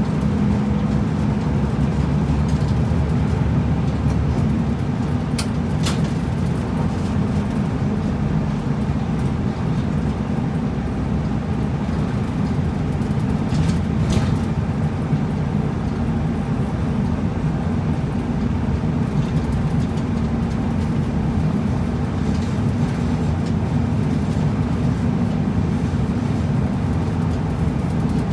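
Route bus running along the road, heard from inside the cabin: a steady low engine drone with tyre and road noise. A few brief clicks come through about five to six seconds in and again around fourteen seconds.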